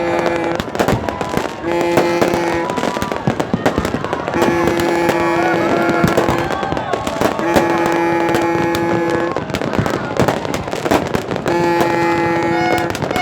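Fireworks crackling and popping in a dense, continuous stream. A horn sounds over them in about five long, steady blasts of one to two seconds each.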